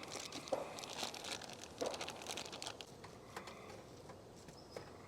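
Faint crinkling with scattered light clicks and taps, as of packaging and small things being handled.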